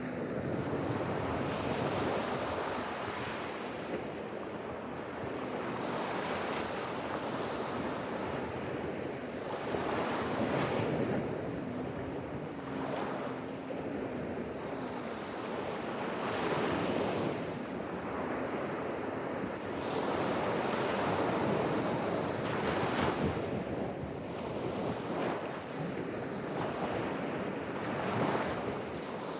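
Ocean surf: waves breaking and washing in one after another, a continuous rush that swells louder every few seconds.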